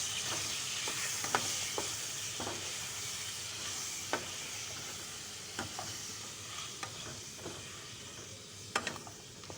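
Chicken pieces sizzling in hot ghee in a pot, with a spoon clicking and scraping against the pot now and then as they are stirred. The sizzle slowly softens.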